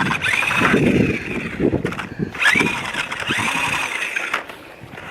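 Electric motor of a remote-control truck whining in two bursts, rising and falling in pitch as the throttle is worked, with a few short clicks between them.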